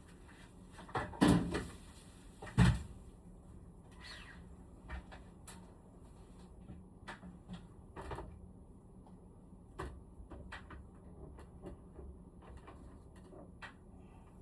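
Knocks and clicks from parts of a room air conditioner being handled during cleaning: two loud knocks a second or two in, then scattered lighter clicks.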